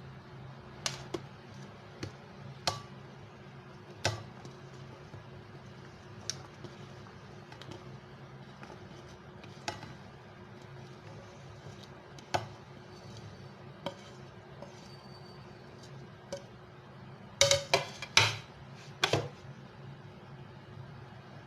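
Scattered clinks and knocks of kitchen dishes and utensils, with a quick run of louder ones near the end, over a steady low hum.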